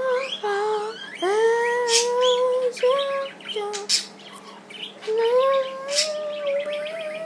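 Pet budgerigar chirping and chattering in short, high calls and sharp clicks, over a person humming a tune in long notes that slide upward.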